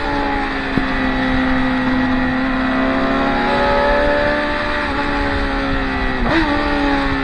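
Racing motorcycles' engines running through a corner on a track day, their pitch sagging and then climbing again as they brake and accelerate. There is a brief sharp jolt in the engine note about six seconds in.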